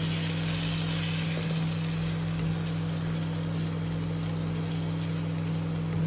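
Onions frying in oil in a pan, giving a steady sizzle, over the steady low hum of the induction cooktop.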